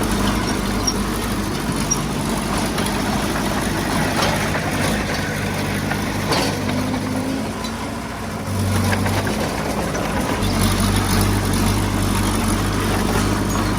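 Diesel engine of heavy earthmoving equipment running steadily. It eases off for a moment a little past the middle and then picks up again.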